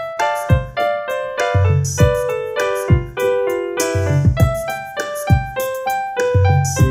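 Piano ensemble (duet) playing a gentle piece: a line of short notes in the middle register over low bass notes struck about once a second.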